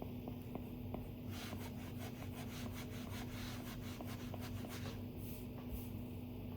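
Stylus drawing on an iPad screen: a few light taps of the tip, then a run of quick, scratchy back-and-forth strokes lasting about four seconds, like hatching or shading. Near the end it slows to a few single strokes.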